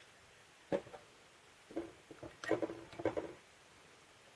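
Plastic and metal parts of a 3M H180 tape gun being handled and fitted together: one knock a little under a second in, then a quick cluster of light knocks and clicks in the second half.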